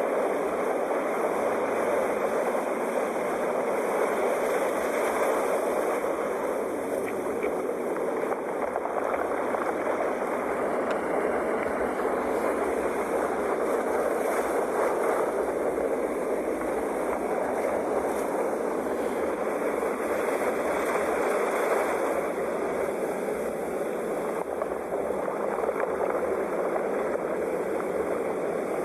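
Sea surf washing onto a shore: a steady rush of breaking waves that swells and eases slightly every several seconds.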